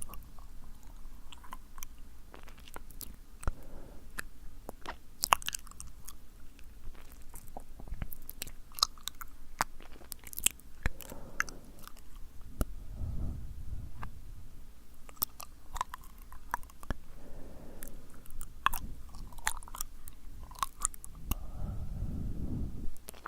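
Close-up ASMR mouth sounds: irregular sticky, wet lip smacks and tongue clicks, with soft breathy swells between them.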